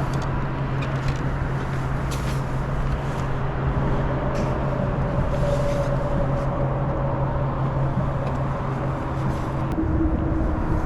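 Boat motor running steadily with a low hum and a wash of noise, the hum dropping in pitch and a higher tone coming in shortly before the end.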